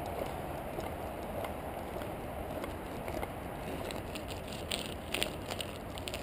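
Bicycle riding along a trail: a steady rolling noise from the tyres, with a few sharp clicks and rattles in the second half.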